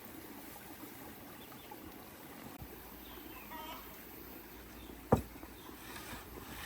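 A faint steady background with one sharp knock about five seconds in.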